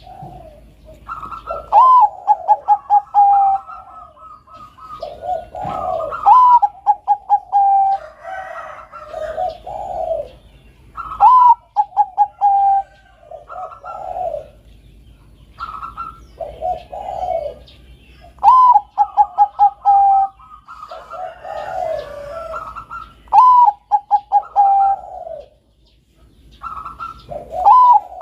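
Bangkok-line zebra dove (perkutut) singing: repeated cooing phrases, each a high opening note and then a rapid run of six or seven stuttering coos, coming about every four to five seconds, with lower, softer coos between them.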